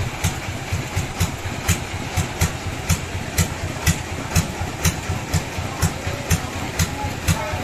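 Sawmill machinery running steadily at idle, with a regular beat of about four knocks a second over a low rumble.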